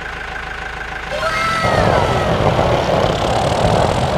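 A steady engine rumble starts abruptly about one and a half seconds in and then keeps running evenly. It follows a quieter hum and a few brief falling gliding tones.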